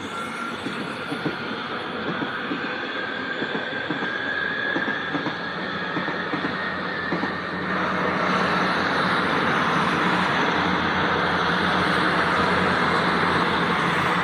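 Passenger trains passing on nearby tracks: wheels clacking over rail joints and pointwork with a faint high wheel squeal, then from about eight seconds in a louder steady rumble as a diesel multiple unit runs through.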